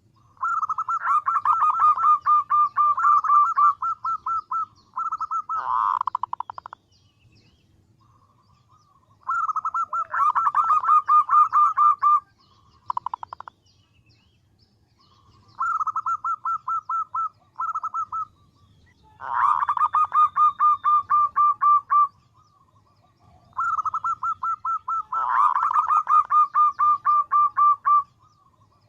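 Female zebra dove (perkutut) calling for a male: bouts of rapid, evenly repeated notes, each bout lasting a few seconds, about six bouts with short gaps between them.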